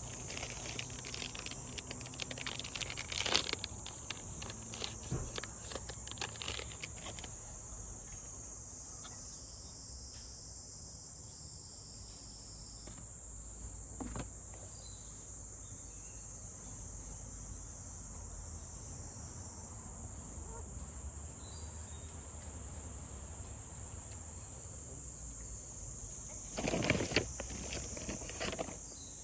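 Steady high-pitched chorus of insects, with scattered clicks and knocks of handling in the first few seconds and again near the end.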